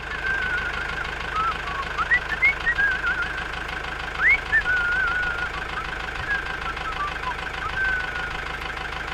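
A steady low engine-like hum under repeated high whistling notes, each sweeping up sharply and then wavering at about the same pitch.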